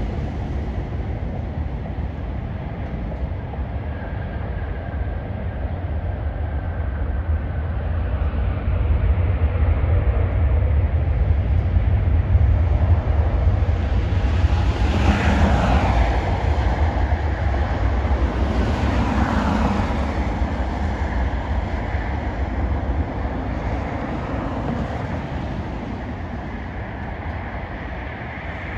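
Jet airliner passing, its engine noise swelling to a peak about halfway through and fading away, over a deep rumble.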